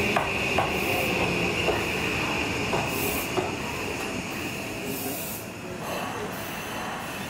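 Electric commuter train running past, its wheels clicking over rail joints at irregular intervals about half a second to a second apart, over a steady high-pitched squeal. The sound slowly fades.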